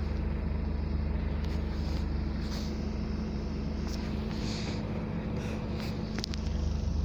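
Scania double-decker bus's diesel engine running steadily, heard from on board the bus, with a few faint knocks and rattles.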